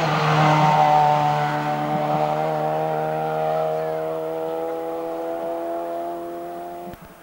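Small racing hatchback's engine running at high, nearly steady revs as the car pulls away uphill, its note slowly dropping and fading before cutting off suddenly near the end.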